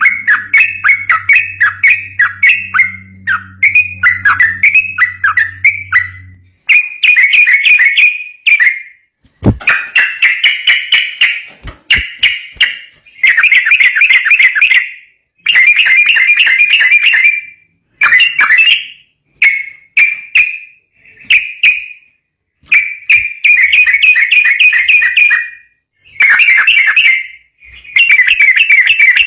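Yellow-vented bulbul singing loudly: quick runs of chattering, bubbling notes. At first the notes come in a fast repeated series, then in bursts of one to two seconds with short pauses between.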